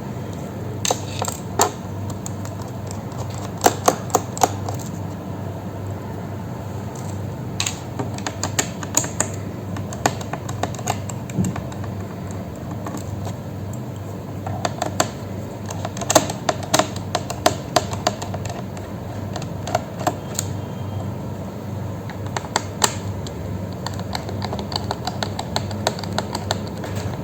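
Irregular small clicks and taps from hand tools and plastic parts as a laptop is taken apart, in scattered clusters over a steady low hum.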